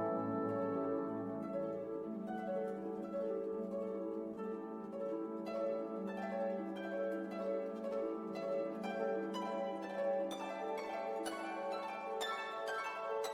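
Instrumental background music: plucked string notes over held chords, the plucking growing busier in the second half.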